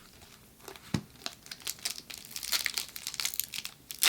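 Foil wrapper of a Pokémon booster pack crinkling and crackling as it is handled and torn open, the crackle growing denser in the second half. A soft knock about a second in.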